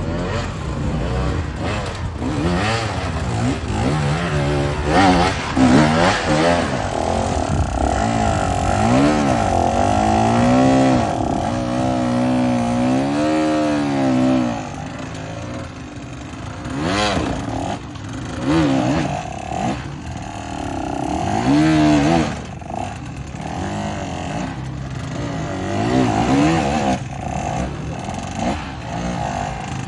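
Dirt bike engine revving up and down in repeated bursts, held high for several seconds near the middle. After that it drops lower, with short throttle blips.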